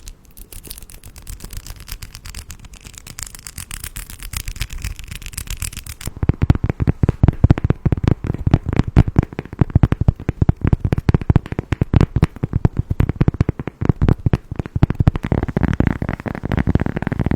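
Dense, rapid clicking and rattling of many small hard objects. About six seconds in it changes to a louder, deeper clatter.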